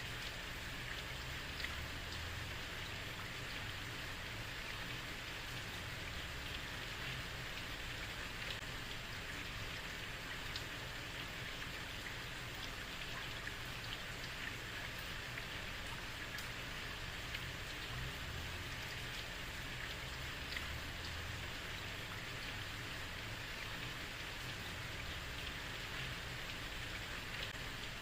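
Steady heavy rain falling on a street, an even hiss with scattered drop ticks and a low rumble underneath.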